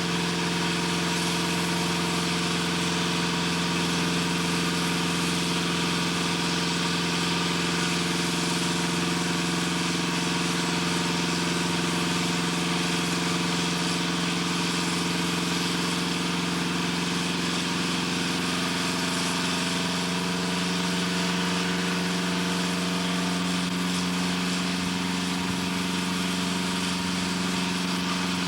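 Steady mechanical drone of running heavy machinery, a low hum with several steady tones over a hiss, holding even throughout.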